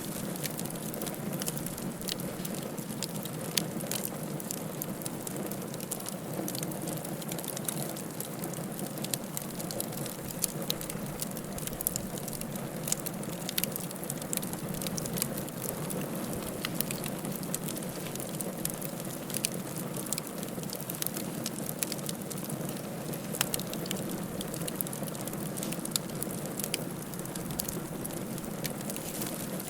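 Wood fire crackling in a fireplace: a steady low rush with many small sharp pops and snaps at irregular intervals.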